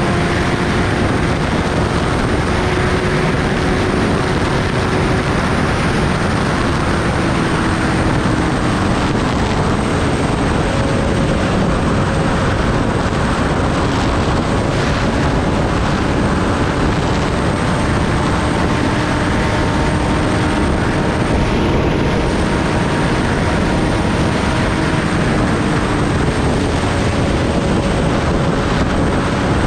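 Steady rush of wind over the microphone of a moving Kawasaki Ninja ZX-10R, with the bike's inline-four engine running beneath it at a steady cruise, its pitch drifting slowly.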